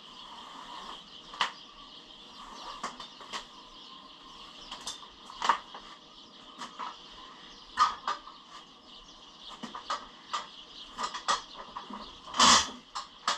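Irregular clicks, knocks and creaks of machine-moving dollies and lifting gear being worked under a milling machine, with one louder knock near the end.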